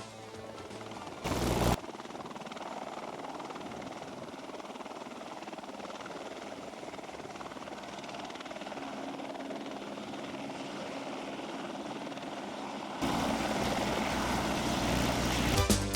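Helicopter engine and rotor noise from inside the cabin, a steady rushing drone. A brief loud burst comes about a second and a half in, and the sound grows louder and fuller a few seconds before the end.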